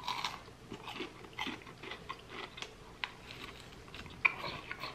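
Close chewing and biting of fast food, a breaded nugget and a burger, making soft, irregular small crackles and clicks. One sharper click a little after four seconds in.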